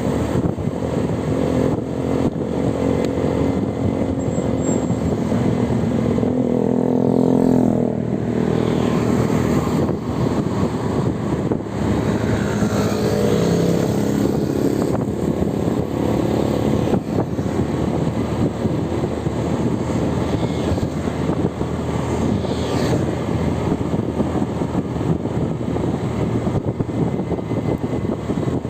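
Motor vehicle engines running over road noise. One engine rises in pitch as it speeds up about seven seconds in, and another is heard about twelve seconds in.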